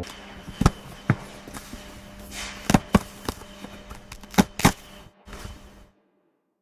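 A series of about seven irregular sharp knocks and clicks over a faint steady hum, stopping abruptly about six seconds in, with one more short click near the end.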